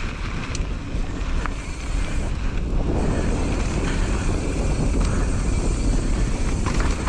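Wind buffeting the microphone of a mountain bike descending a dirt trail, with steady tyre rumble and a few sharp clicks and rattles from the bike.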